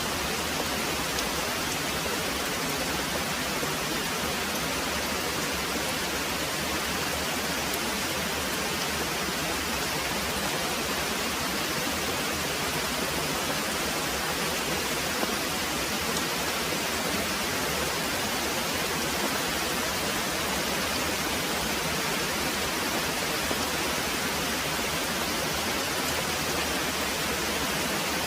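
Very heavy rain pouring steadily, a dense even hiss of downpour.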